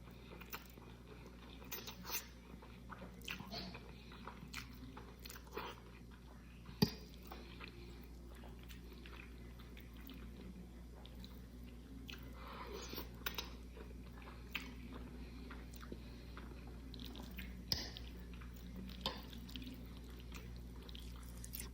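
Faint close-up chewing and biting of a mouthful of pasta, with scattered small mouth clicks and smacks. A sharper click about seven seconds in and another near the end stand out.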